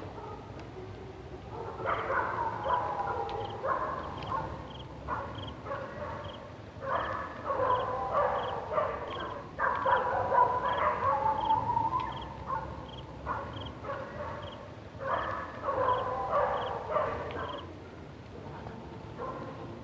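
Dogs barking, yipping and howling in several bouts, set off in alarm, perhaps by the floodlight.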